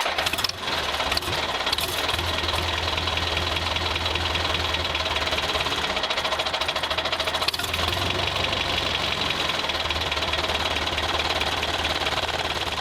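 An engine running steadily with a rapid, even knocking beat, fading a little near the end.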